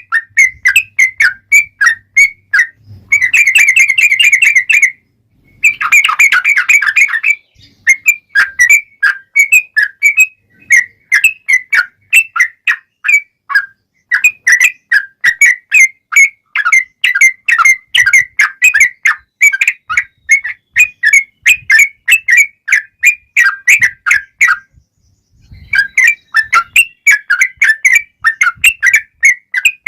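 Sooty-headed bulbul (trucukan) singing a long run of quick, short chirping notes, several a second. It breaks into two dense trills about 3 and 6 seconds in and pauses briefly about 25 seconds in.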